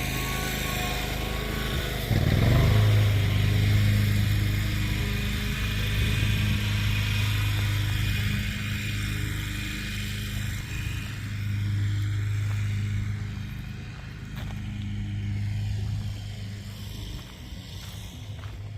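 A motor running with a steady low hum. It gets louder suddenly about two seconds in and eases off near the end.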